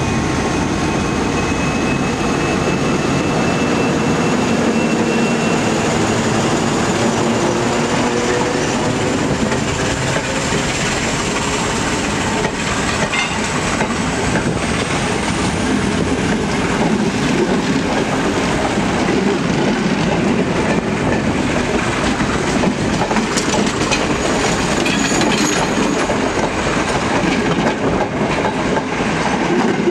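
Sri Lanka Railways M4 class diesel-electric locomotive passing close by with its engine running and a steady whine, followed by its passenger coaches rolling past, wheels rumbling and clattering over the rail joints.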